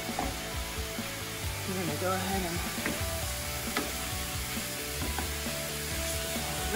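Chicken and vegetables sizzling in two skillets while they are stirred, a wooden spatula scraping and clicking against the pans now and then.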